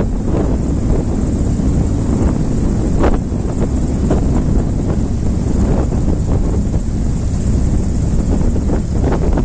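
Light propeller aircraft engine running steadily, a loud low drone with a few short knocks, the clearest about three seconds in.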